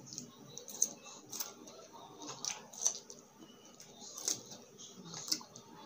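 Close-miked chewing of raw cucumber: irregular crisp, wet crunches and mouth clicks, about one a second.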